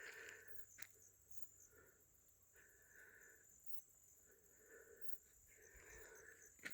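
Faint chirring of crickets: a steady, high, pulsing trill, with soft sharp clicks about a second in and again near the end.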